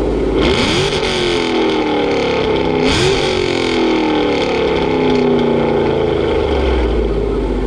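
Dodge Hemi V8 engine revved hard twice, its pitch jumping up sharply and then sliding slowly back down each time, with a loud exhaust rasp at each blip.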